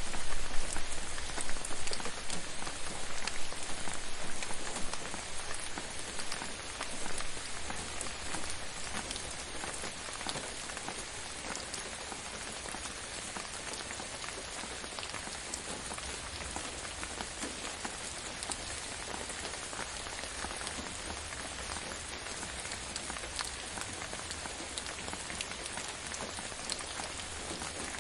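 Gentle rain falling on a surface, a dense patter of drops; louder for the first few seconds, then settling to an even level.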